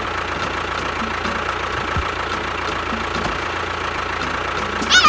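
Small motor running steadily at an even speed, with a faint regular ticking. Right at the end a short pitched sound steps down in pitch.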